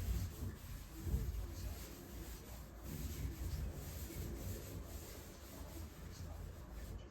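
Scrubbing on a bathtub surface: continuous, uneven rubbing strokes that swell and fade.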